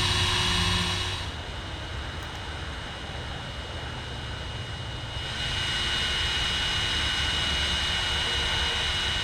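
A small electric air pump runs with a steady high whine as it inflates a sleeping pad. It drops in level about a second in and comes back loud about five seconds in.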